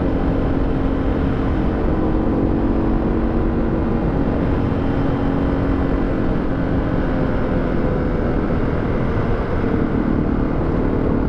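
Suzuki DR650 single-cylinder engine running at a steady speed, with heavy low wind rumble on the microphone. The engine note shifts slightly near the end.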